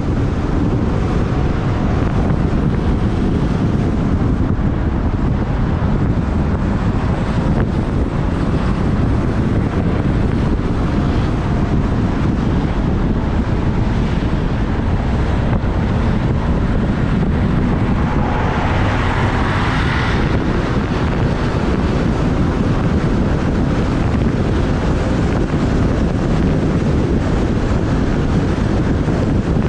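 Wind buffeting the microphone of a moving motorbike, a steady low rushing with the bike's engine and traffic underneath. A brief louder hiss comes about two-thirds of the way through.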